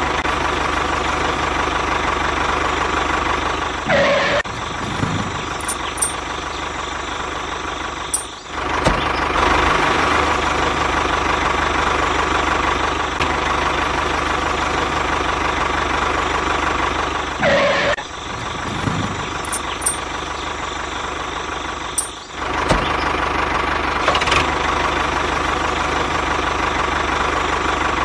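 Tractor engine running steadily at a knocking idle, dipping briefly twice, with a few short high chirps over it.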